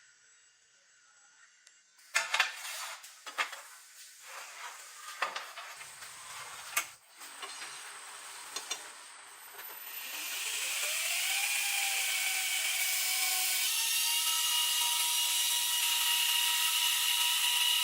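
Several sharp knocks and clatters of tools and metal being handled, then a power tool starts up, its whine rising briefly, and runs steadily with a high, hissing grinding noise.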